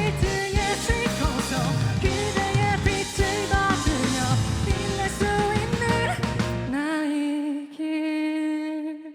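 Rock band playing the end of a song with drums, guitar and singing; about seven seconds in the drums and bass stop and a single held note rings on, then fades away.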